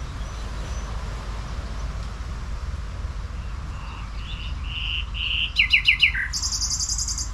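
A songbird singing: a few short whistled notes, then four loud quick falling notes about five and a half seconds in, then a very high rapid trill near the end, over a steady low rumble.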